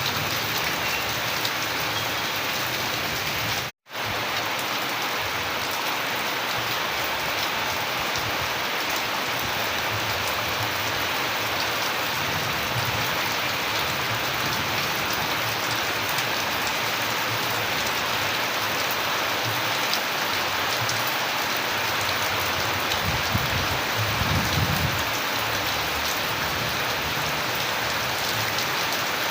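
Steady rain falling and pattering on surfaces, cut to silence for a split second about four seconds in. A low rumble swells briefly near the end.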